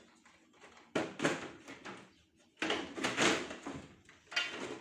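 Plastic parts of a split-type air conditioner being handled and unlatched: sudden knocks and scraping strokes, the loudest run about halfway through and another near the end.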